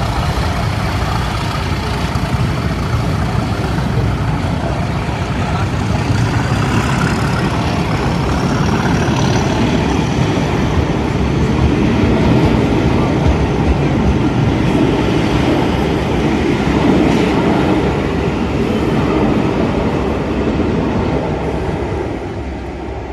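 Two Class 37 diesel locomotives with English Electric V12 engines working under power as they pull away, with a faint rising turbocharger whistle in the first half; the sound is loudest in the middle and fades near the end as they move off.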